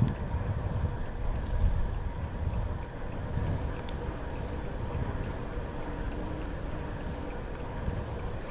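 Steady low rumble of a bicycle rolling along a trail, with wind on the microphone and a couple of faint clicks.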